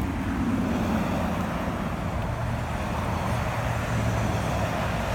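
Road traffic: a steady wash of passing cars' engine and tyre noise with a low rumble.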